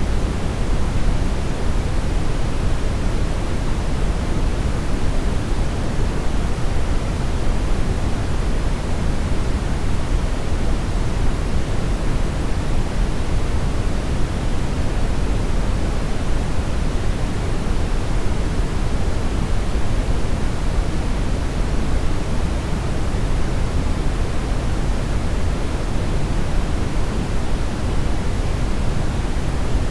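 Steady synthetic brown noise: an even, unchanging hiss-like rush weighted heavily toward the bass, with no tones or events.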